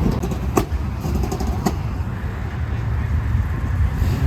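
A car's engine and road noise, heard as a steady low rumble, with two sharp clicks about half a second and a second and a half in.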